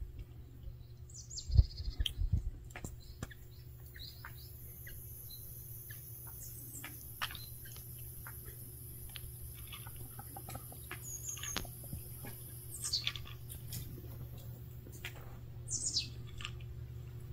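Small birds chirping in short, high, falling calls every few seconds over a steady low hum, with scattered faint clicks as a cat crunches dry kibble. A few dull low thumps come about one and a half to two seconds in.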